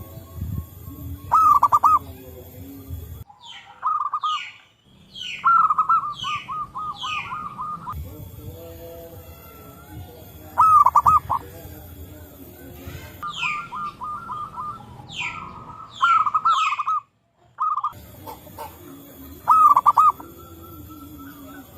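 Zebra doves (perkutut) cooing: repeated phrases of quick, stuttering coos, several birds answering one another. Other birds give short falling chirps between and over them, and the sound breaks off abruptly a few times.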